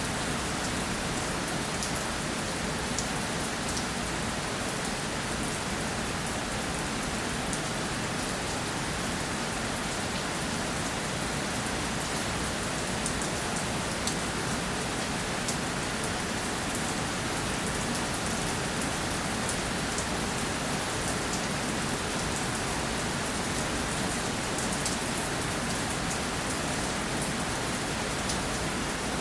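Steady rainfall, a continuous even hiss with many small drop ticks scattered through it.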